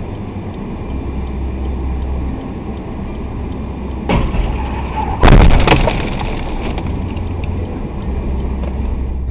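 Road and engine noise of a moving car. About five seconds in there is a sudden loud crash of impact, with a few sharp knocks right after it.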